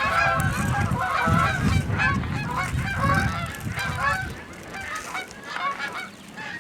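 A flock of Canada geese honking, many overlapping honks and clucks at once, thinning out and fading after about four seconds.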